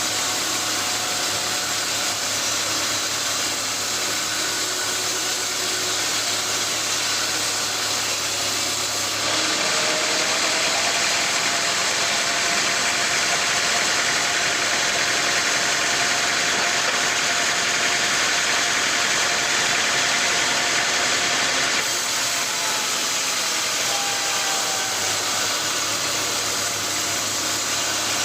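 Sawmill machinery running with a steady, loud noise. The sound changes abruptly about 9 seconds in and back again about 22 seconds in.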